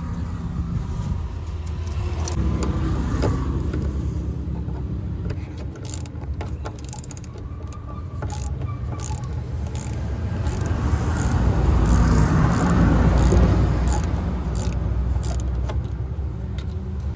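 Clicks and small plastic-and-metal rattles of the DEF dosing module's wiring couplers being worked loose and handled, over a steady low rumble like a vehicle engine running, which swells for a few seconds past the middle.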